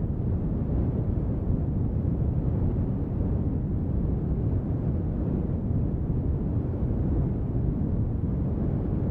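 Steady brown noise mixed with rain: an even, deep hiss, strongest in the low end, that does not change.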